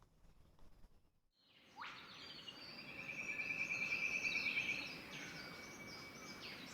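Faint outdoor ambience of birds chirping and calling over a steady background hiss, including a rapid trill lasting about two seconds; it starts about two seconds in, after a near-silent stretch.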